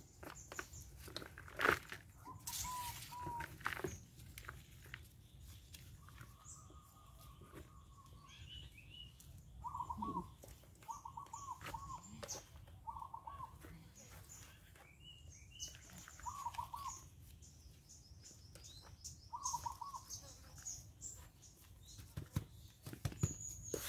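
Birds chirping in short repeated phrases of three or four notes, with higher calls in between. Rustles and a few sharp clicks of hands working soil in a plastic pot.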